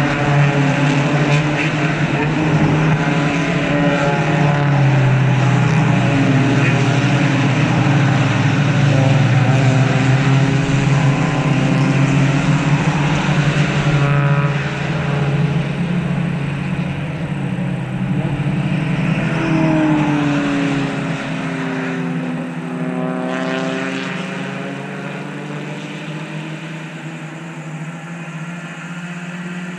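Several race cars passing at speed on a road course, engines running at high revs and overlapping, their pitch falling as each one goes by. The engine sound eases off over the last several seconds as the pack moves away.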